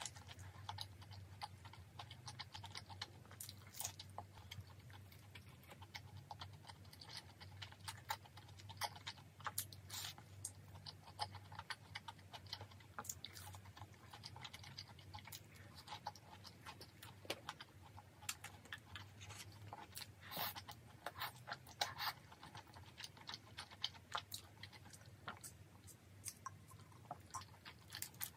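Close-up eating sounds: chewing and crunching of battered fried squid and tteokbokki, with many irregular sharp crunches over a faint low hum.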